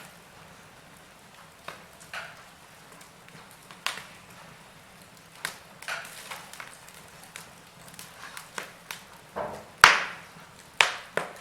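Wood fire burning in a fireplace, crackling with sharp, irregular pops over a faint hiss; the two loudest pops come near the end, about a second apart.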